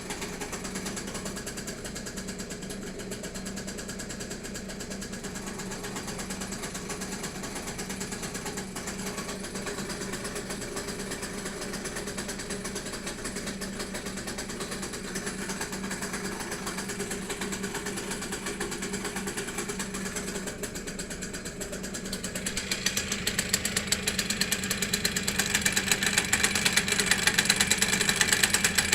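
BMW M54 straight-six engine idling with a rapid mechanical rattle that comes while the clutch pedal is not pressed. The rattle grows clearly louder about 22 seconds in.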